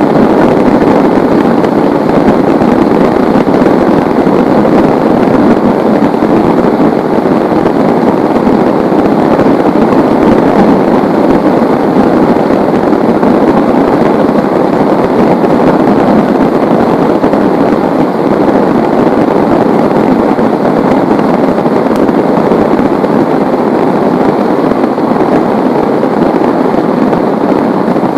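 Heavy rain falling steadily: a loud, dense, even hiss of pattering drops with no breaks.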